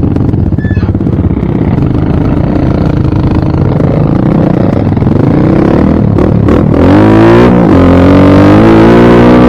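Dirt bike engine running, its pitch climbing, dropping back briefly, then climbing again and holding steady and louder for the last couple of seconds.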